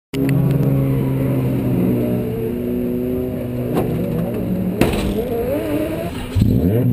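Toyota Corolla KE70 drift car's engine idling steadily, with a sharp clack about five seconds in as the stripped steel driver's door is pulled shut. Near the end the engine revs up.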